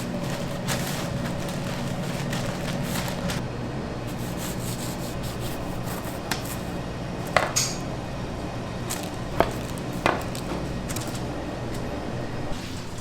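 Bakery kitchen work: a steady low machine hum with a few sharp knocks in the middle, typical of knife or utensil strikes on a work surface.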